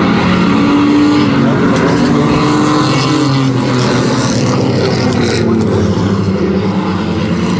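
A field of Renegade-class race trucks running at racing speed, several engines sounding at once, their pitches rising and falling as they work around the track.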